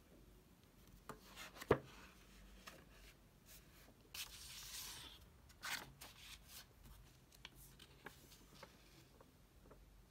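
Faint desk handling sounds: scattered light taps and clicks, a sharper click about two seconds in, and a brief soft rustle of paper near the middle.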